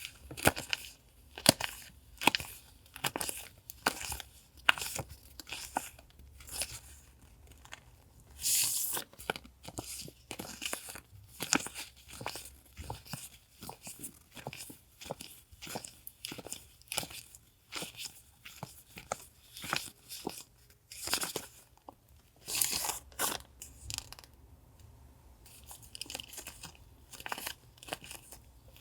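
Paper and plastic journaling goods being handled and unpacked: a steady run of short crisp crackles and taps, with a few longer rustles.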